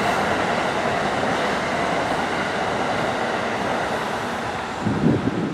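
Amtrak passenger train passing at speed, a steady rush of wheel and air noise that slowly fades. About five seconds in, wind buffets the microphone in a few low gusts.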